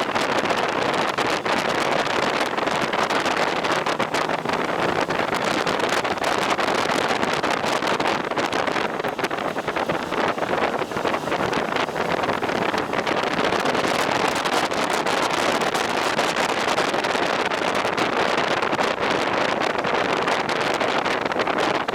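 Steady rush of wind and road noise buffeting the microphone of a moving motorcycle at speed, with no clear engine note standing out.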